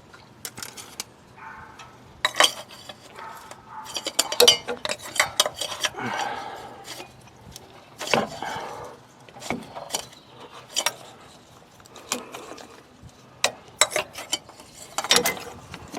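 Irregular metal clinks, clanks and short scrapes as an oil filter wrench is fitted and tightened on a new FL-400S oil filter.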